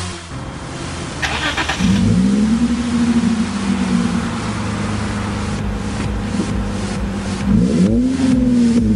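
Second-generation Lexus IS sedan's V6 engine starting: a brief starter whir about a second in, then it catches with a rising flare and settles into a steady idle. Near the end the throttle is blipped once, the revs rising and falling back to idle.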